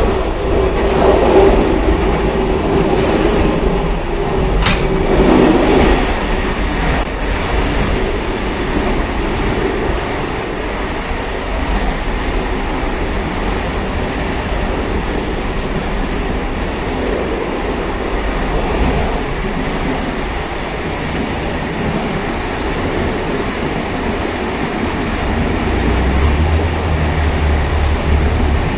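Railcar running on the rails: a steady rumble and rattle of the wheels on the track. There is a sharp click about five seconds in, and a deeper low hum swells up near the end.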